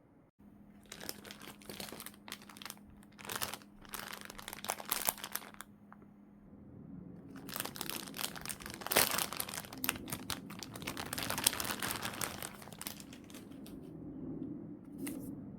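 Plastic packaging crinkling and rustling as it is handled, in bursts for about five seconds, then after a short pause a longer, denser stretch of crinkling, and one brief rustle near the end.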